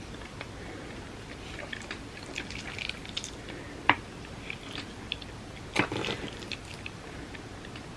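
Close-up eating of creamy rice pudding: soft, wet chewing and mouth sounds with small crackles. A sharp click comes about four seconds in, and a louder cluster of clicks follows near six seconds.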